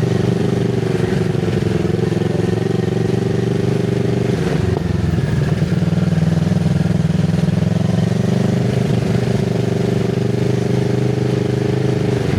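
Kawasaki Z650RS parallel-twin engine through an IXIL MK2 full exhaust with its dB killer fitted, running at steady low revs. The revs dip briefly about four and a half seconds in, pick up again, and ease off near the end.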